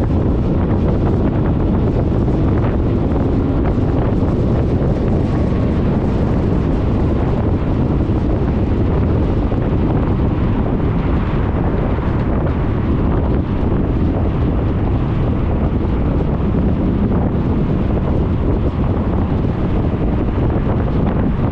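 Steady wind rush buffeting the scooter-mounted GoPro's microphone while a Suzuki Burgman 400 scooter is ridden, with the scooter's running and road noise underneath.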